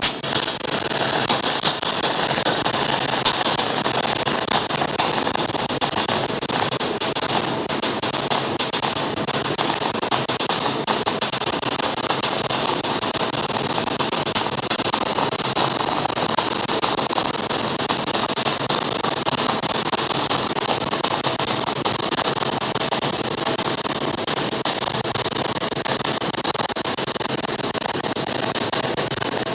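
MIG welding arc of a Tesla Weld MIG 500S running non-pulsed on 3 mm aluminium, with 1 mm ER5356 wire under pure argon. A dense, steady crackling hiss strikes up sharply at the start and burns for nearly half a minute without a break.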